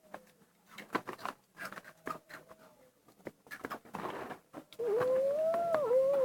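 Crisp crunching clicks of potato stick snacks being chewed, then about five seconds in a single long, wavering, mewing call that is the loudest sound.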